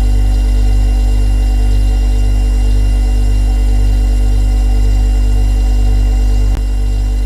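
Refrigerator compressor running with a steady low hum and several fainter steady tones above it. A short click comes about six and a half seconds in, and the hum is slightly quieter after it.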